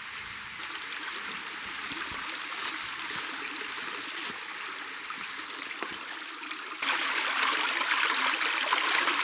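Running water, a stream trickling steadily, which turns abruptly louder and brighter about seven seconds in.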